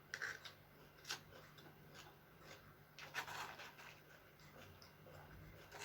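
Faint eating sounds: a few soft clicks and scrapes of a utensil against a plate or food container, with a longer scraping patch about three seconds in.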